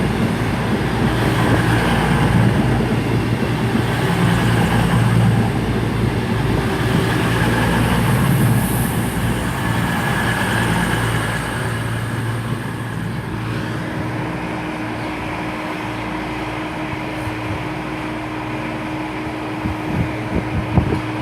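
Two coupled Class 221 Super Voyager diesel-electric trains with their underfloor diesel engines running, a steady low hum that slowly eases off. A steady higher tone joins about two-thirds of the way through, and there are a few sharp clicks near the end.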